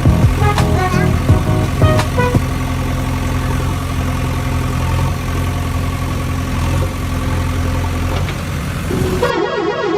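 A vehicle engine sound effect running at a steady idle-like hum, with clicks and short melodic tones over it in the first couple of seconds. About nine seconds in it cuts off abruptly and a different sound of stepping tones begins.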